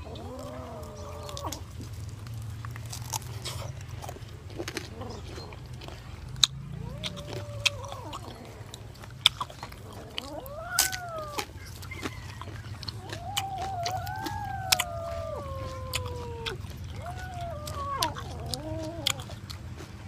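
Close chewing and biting of grilled pig head meat, with many sharp wet clicks and smacks. Over it an animal gives about six drawn-out calls that rise and then fall in pitch, one of them lasting about three seconds.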